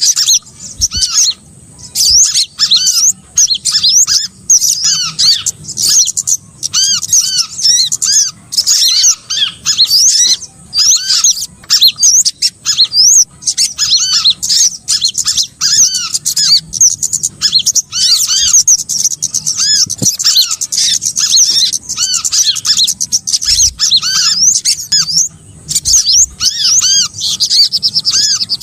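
Bird-lure recording of small songbirds calling: a dense, continuous stream of quick, high arched chirps and trills, the kind of call loop played to draw small birds in for catching.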